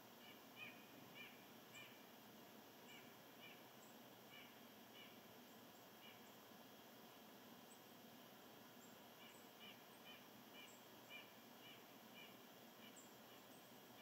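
Faint outdoor ambience with a bird calling in two runs of short, repeated chirps, with a pause in the middle, and a few thin, higher chips.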